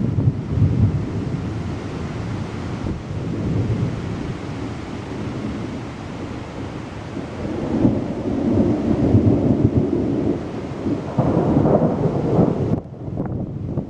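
Thunder rumbling over steady rain, with the rumble swelling louder in the second half and dropping off near the end.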